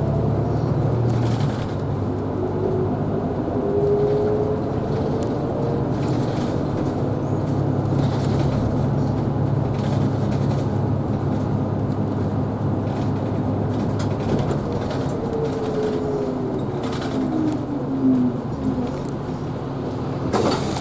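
Isuzu Erga Hybrid city bus running, heard from inside: a steady diesel drone with a whine that rises in pitch early on and falls away as the bus slows for its stop, then a short loud hiss near the end.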